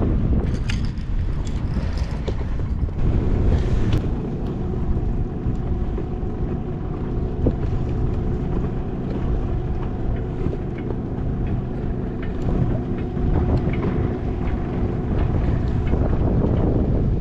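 Strong wind buffeting the microphone, with a steady hum of several tones underneath from about three seconds in and a few clicks near the start.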